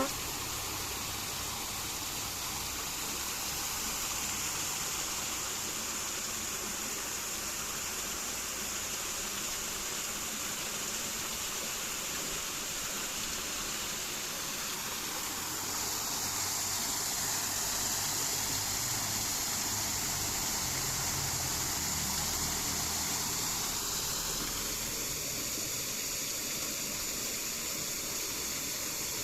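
Steady rushing of flowing water, with a high, even hiss that grows a little louder about halfway through.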